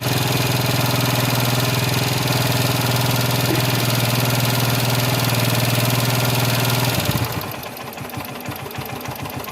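Motorcycle engine running with an abnormal noise that comes from a worn, locally made aftermarket camshaft. About seven seconds in, the steady running note stops and a quieter, evenly repeating beat goes on.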